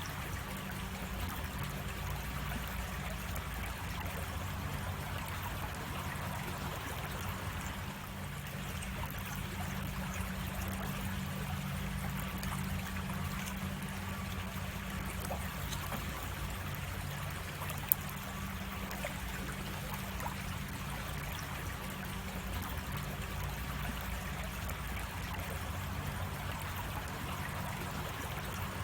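Creek water running steadily over a small cascade, a continuous trickling and splashing. A single sharp click comes about 18 seconds in.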